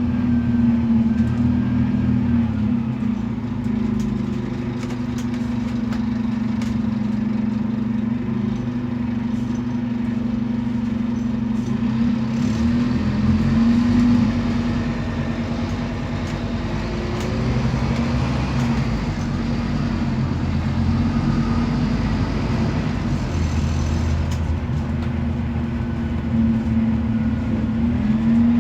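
Scania DC9 five-cylinder diesel of a Scania K280UB city bus running as the bus drives, its note rising and easing off a few times, with a steady low drone underneath.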